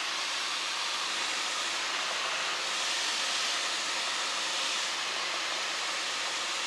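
Steady rushing cabin noise in a Cessna Skyhawk on final approach with power reduced: airflow and engine heard as an even hiss.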